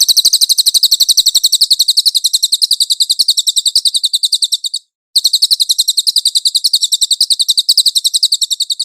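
Cililin song: a fast, even trill of high, sharp notes, about ten a second. It pauses briefly about five seconds in, then resumes.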